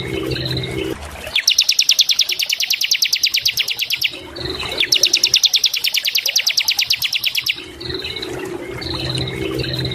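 Bar-winged prinia (ciblek) singing: two long, rapid high trills of about ten notes a second, each lasting close to three seconds, with short high whistled notes and a lower steady sound in the pauses between them.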